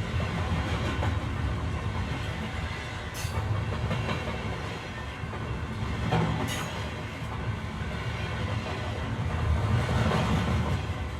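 O-scale model train rolling along the layout's track: a steady low rumble, with a sharp click about three seconds in and another about six and a half seconds in.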